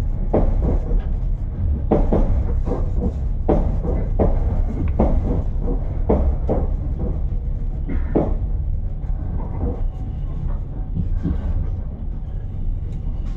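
Moving passenger train heard from inside the carriage: a steady low rumble with irregular knocks and clatter from the running gear.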